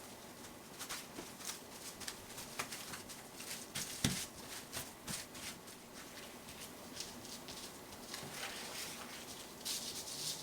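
Hands handling kimbap-making materials, with irregular rustling and light clicks and one louder knock about four seconds in.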